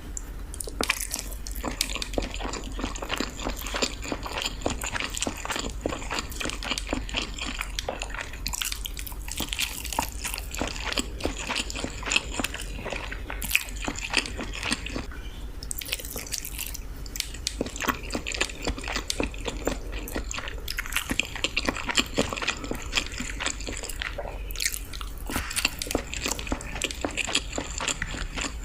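Close-miked ASMR eating: steady chewing with many small wet smacks and clicks as someone eats balado eggs (boiled eggs in chili sauce).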